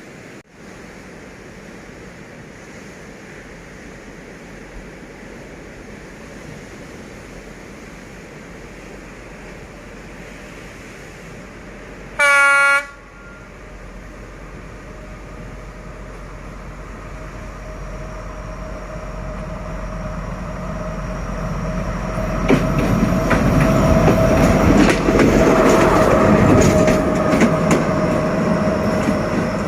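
D11H diesel locomotive sounding one short horn blast partway through, then approaching and passing. The sound grows louder with the engine running and the wheels clicking over the rail joints, loudest near the end.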